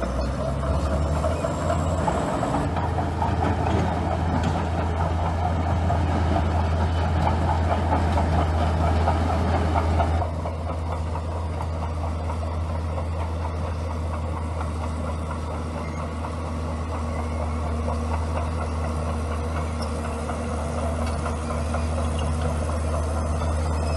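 Bulldozer diesel engine running under load with a rattling clatter over the engine note for the first ten seconds, then dropping suddenly to a quieter, steadier run.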